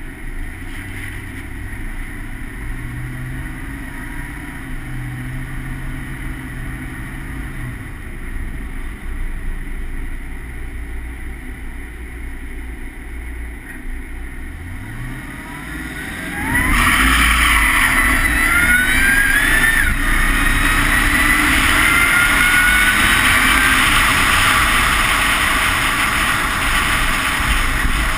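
Supercharged 454 LSX V8 in a Chevrolet SSR running at low revs, its note stepping up and down a few times. About sixteen seconds in it accelerates hard and gets much louder, with a rising supercharger whine over the exhaust.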